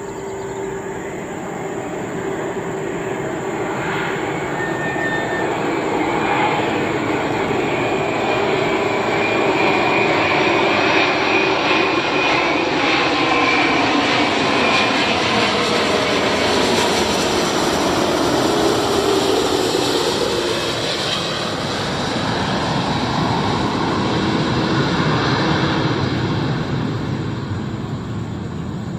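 Airbus A330-900 airliner's Rolls-Royce Trent 7000 jet engines as the plane flies past. The noise builds to a peak around the middle, its tones slide down in pitch as it passes, and then it fades.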